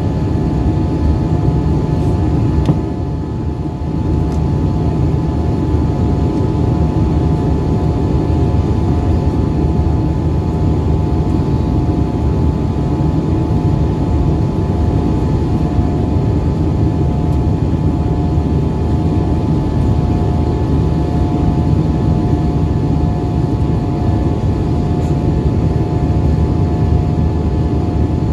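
Airbus A320 jet engines running under power, heard from inside the passenger cabin: a steady loud rush of noise with a few steady hums, easing slightly for a moment about three seconds in.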